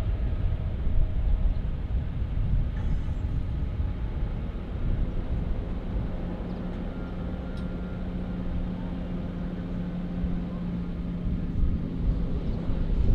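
Jet airliner engines rumbling, with a steady low hum joining in about halfway through.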